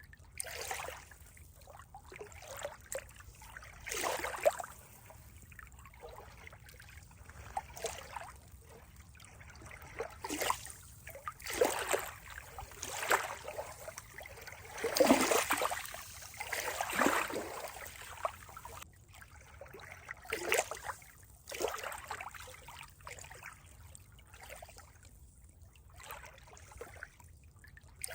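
Water trickling and splashing in uneven bursts over a steady low background, a small stream or lapping water.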